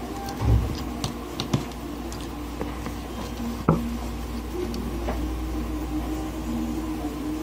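Scattered small clicks and knocks from hands handling parts and tools at a workbench, the sharpest about three-quarters of a second before the midpoint, over a steady low hum.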